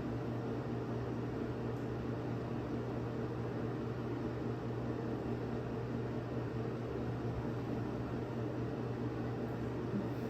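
Steady, even hum of a running fan or air-conditioning unit, with a low drone that does not change.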